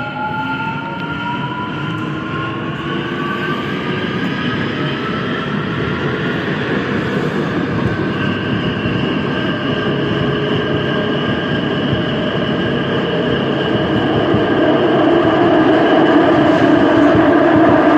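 Busan Metro Line 2 electric train accelerating, heard from inside the car: its VVVF inverter and traction motors whine in several tones that rise in pitch over the first six seconds, then hold steady. Wheel and track running noise grows steadily louder.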